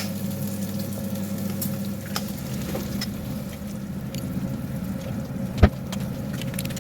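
Eggs and bacon sizzling in a frying pan: a steady sizzle with scattered small pops, over a steady low hum, and one sharp knock about five and a half seconds in.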